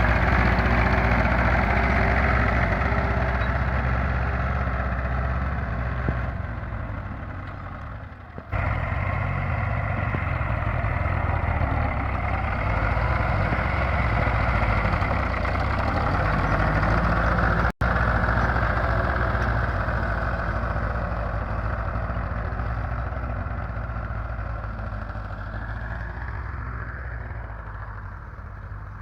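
Ford 3000 tractor's three-cylinder engine running steadily, growing fainter twice as it moves off, with two brief sudden cut-outs in the sound, about a third of the way in and just past the middle.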